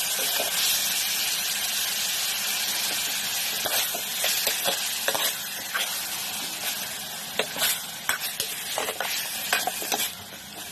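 Pork pieces with onion and tomato sizzling as they sauté in a pot, with a steady hiss and the scattered clinks and scrapes of a utensil stirring them against the pot.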